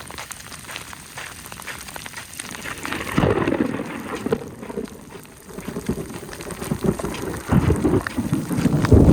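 Thunderstorm: rain pattering, with rolling thunder that swells about three seconds in and rumbles again near the end.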